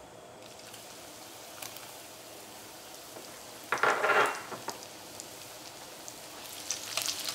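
Chopped dates frying in hot ghee: a steady sizzle, with a louder burst of sizzling about four seconds in and light crackling spatters near the end.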